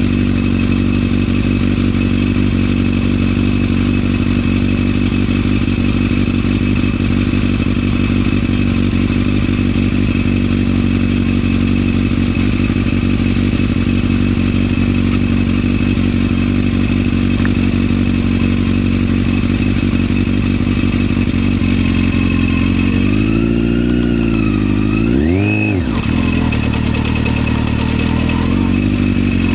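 Yamaha FZS600's inline-four engine running at a steady pace under way. About three-quarters of the way through, the revs swing down and up, with one quick rise and drop, then settle again.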